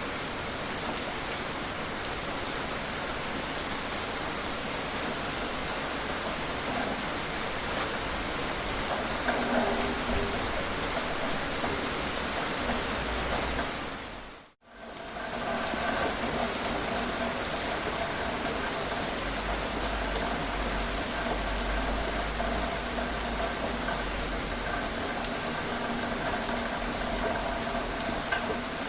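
Steady rain falling, individual drops pattering on a surface. About halfway through the sound dips almost to silence for an instant, then comes straight back.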